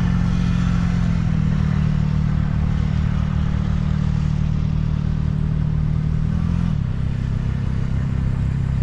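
A motor vehicle engine running steadily close by, a low drone whose pitch drops a step about a second in and again near the end, over general street noise.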